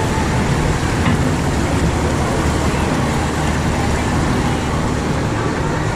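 Steady, loud rushing noise of a Kali River Rapids river-rapids raft ride: water and the moving raft, picked up by a GoPro riding on board.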